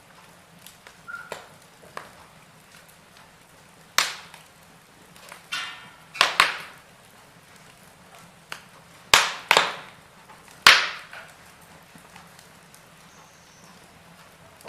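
Wood fire in a fireplace crackling: about half a dozen sharp pops and cracks, each dying away quickly, over a faint steady hiss. The loudest cracks come in the second half.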